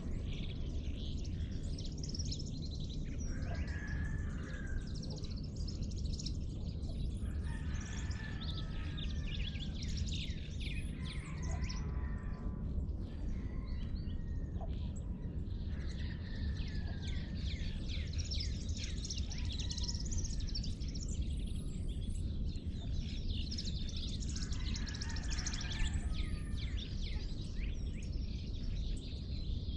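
Dawn chorus of many birds chirping and calling at once, with a few lower, fuller calls standing out now and then, over a steady low rumble.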